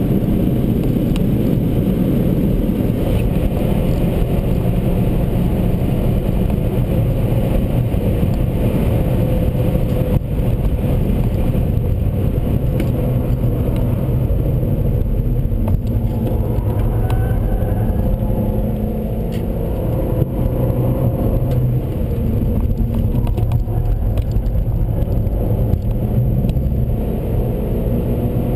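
Seat Leon Cupra 1P's turbocharged 2.0-litre four-cylinder engine under load, its pitch rising and falling as it accelerates and changes speed, over steady road noise.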